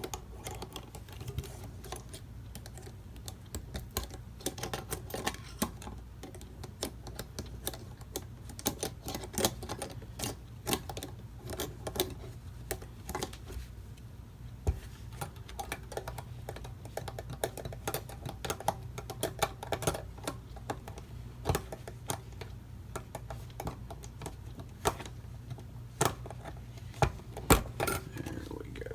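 Irregular small metallic clicks and taps as a mainspring clip is worked around the wound strike-side mainspring of a clock movement, over a steady low hum.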